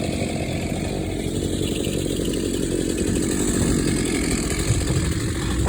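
Gas chainsaw running steadily while cutting storm-downed trees.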